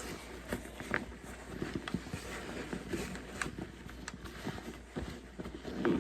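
Scattered light knocks, clicks and rustling as a dog shifts and settles into a motorcycle dog carrier, over a faint steady low hum.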